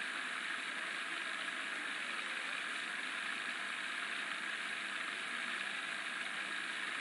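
Steady hiss-like background noise with no change in level and no distinct events.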